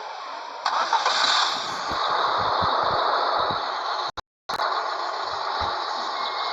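Scania 113H truck on the move: a steady rush of engine and road noise that gets louder a little under a second in, with a brief total dropout about two-thirds of the way through.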